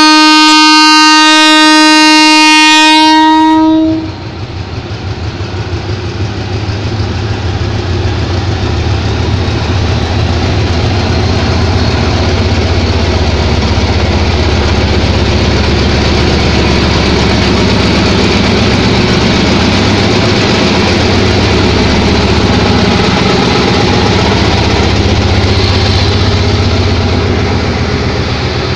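A diesel-electric locomotive's horn sounds one long, steady blast of about four seconds. It cuts off, and the engine's rumble builds as the Hitachi locomotive pulls the express train away past the platform. The train then rolls steadily by, coach after coach.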